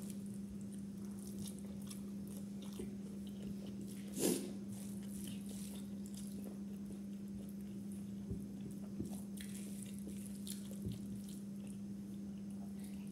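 A person chewing mouthfuls of chicken biryani eaten by hand, with faint mouth clicks, over a steady low hum. There is a brief louder noise about four seconds in.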